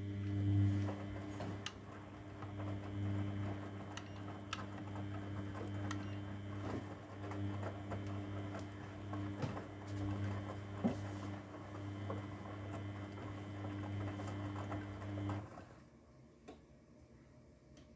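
Grundig washing machine running: a steady low hum with light clicks and rattles, which stops about fifteen seconds in.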